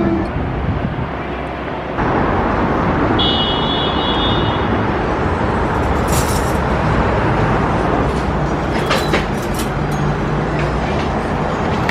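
City street traffic noise: a steady rush of passing road vehicles, with a brief high tone about three seconds in and a few short clicks later on.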